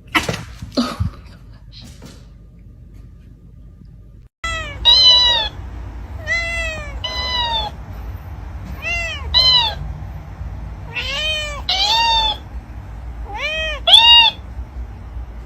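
A domestic cat meowing over and over: about ten short meows, mostly in pairs, each rising then falling in pitch, after a few brief sharp noises at the start.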